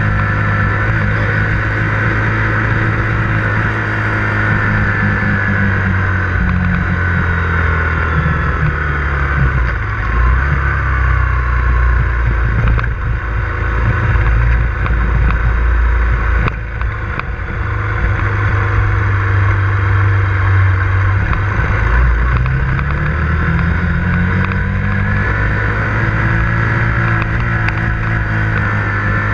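KTM 125 Duke's single-cylinder four-stroke engine running under way. Its pitch falls as the bike slows about a quarter of the way in, stays low for a while, then rises again as it picks up speed near the end.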